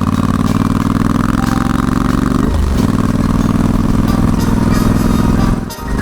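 Yamaha XSR700 parallel-twin engine through an SP Tadao Power Box Full RS exhaust, pulling under acceleration with the revs climbing. About 2.5 s in the revs drop for an upshift and then climb again. Near the end the sound dips briefly as the throttle is rolled off.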